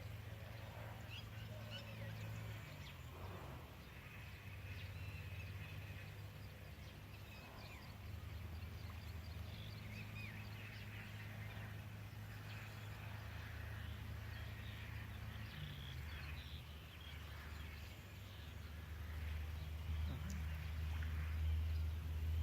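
Outdoor ambience: scattered short bird chirps over a low, steady rumble.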